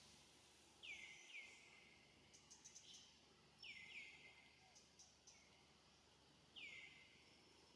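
A bird calling over quiet forest ambience: short high notes sliding downward, heard as two pairs and then a single one near the end.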